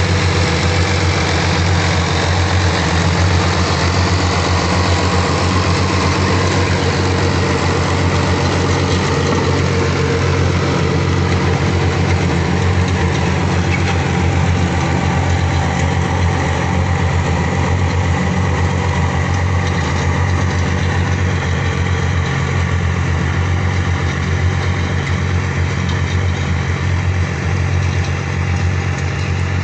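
Fiat 480 tractor's diesel engine running steadily at a constant speed.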